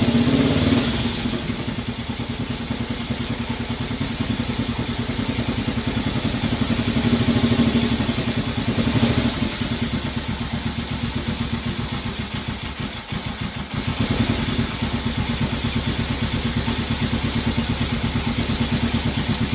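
Honda CL77 305 Scrambler's air-cooled parallel-twin engine idling with an even, steady beat, shortly after a start following two weeks of sitting. The revs rise a little about eight seconds in and sag briefly around thirteen seconds before settling back to a steady idle.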